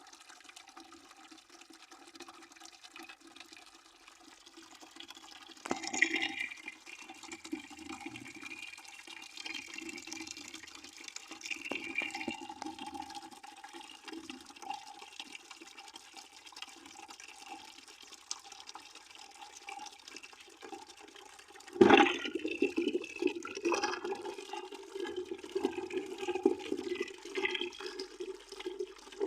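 Water pouring steadily into a bucket, splashing and gurgling, louder for a few seconds about six seconds in, then a sudden louder splash about three quarters of the way through, after which the flow stays louder.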